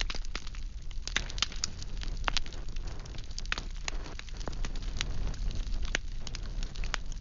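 Wood fire burning, with irregular sharp crackles and pops from the firewood over a low steady rumble of the flames.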